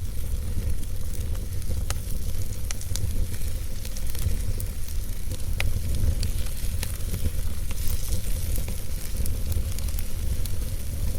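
Campfire burning, with scattered sharp crackles and pops over a steady hiss and a low rumble.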